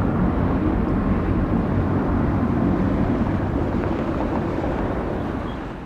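Jet airliner engines rumbling steadily from a departure, easing off near the end.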